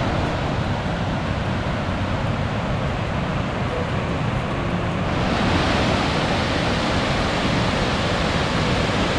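Large waterfall below a dam, a steady rush of falling water that grows louder and hissier about five seconds in.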